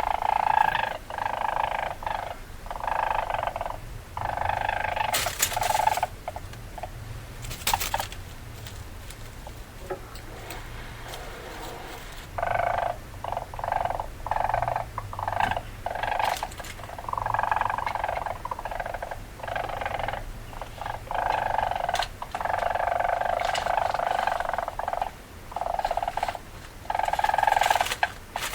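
Weasel calls: repeated bursts of shrill, pitched chattering squeals, with a quieter stretch in the middle.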